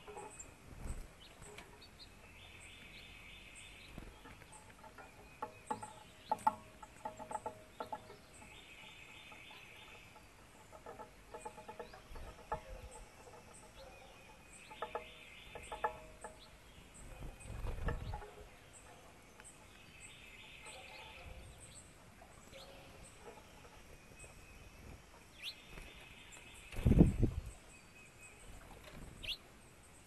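Backyard birds calling: one bird repeats a short song phrase about every six seconds, with other chattering calls in between. Two low thumps or rumbles, the louder one near the end.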